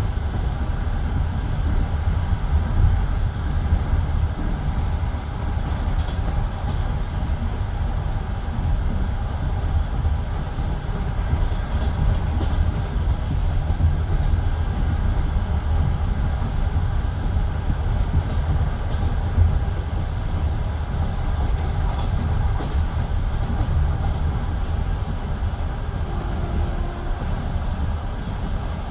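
Passenger train coach running along the track at speed: a steady low rumble of wheels on rail with a few faint clicks.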